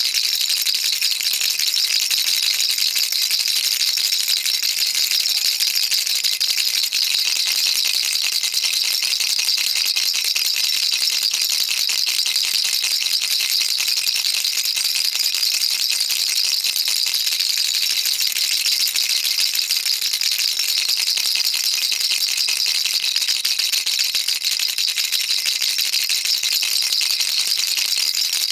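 Baby rattle shaken without pause: a dense, even, high-pitched rattle of small beads clattering inside the toy, with no breaks.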